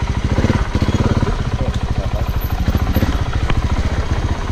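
Motorcycle engine running steadily at low revs, a fast, even putter.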